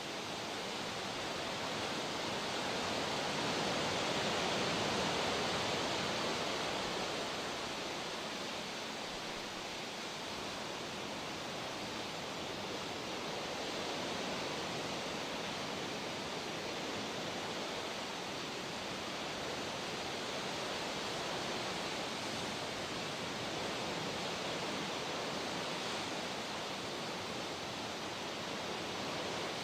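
Steady rush of moving water, swelling a little about four seconds in and then settling back to an even level.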